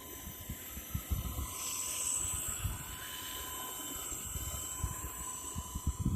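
Blade 230S V2 electric RC helicopter with brushless main and tail rotors, whining steadily in flight. The high whine swells briefly from about a second and a half to three seconds in, over low gusts of wind on the microphone.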